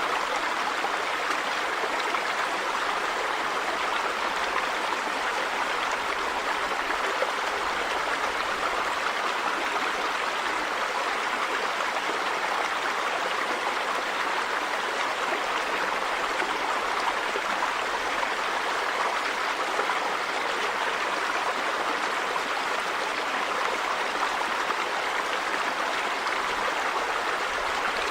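River water running over rocks: a steady rushing and babbling with no change in level.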